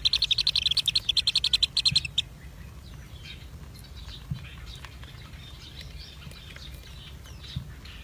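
Nestling birds in a nest hole chirping in a fast, even trill of about ten high notes a second, which stops about two seconds in; after that only faint scattered chirps.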